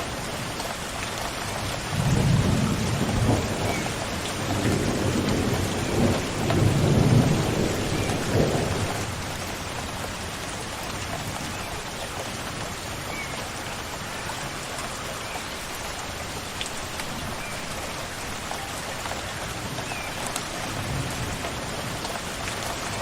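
Steady rain falling, with a long rumble of thunder from about two to nine seconds in. A few faint short bird chirps come through the rain.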